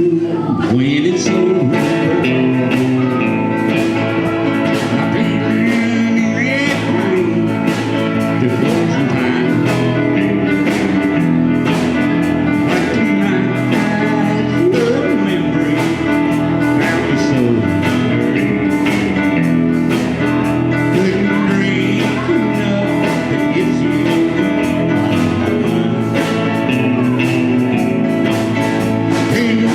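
A small band playing a blues-country song: sung vocals over guitar, with a steady beat.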